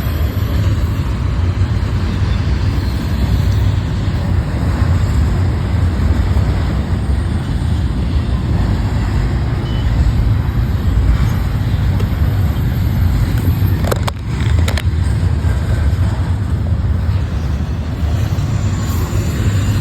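Intermodal freight train rolling past close by: a loud, steady low rumble of wheels on rail, with two sharp clicks about fourteen seconds in.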